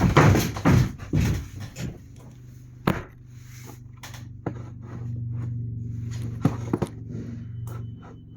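Motorcycle being kick-started: several loud mechanical clunks of the kickstarter in the first two seconds, then a low steady engine running, with a few sharp knocks.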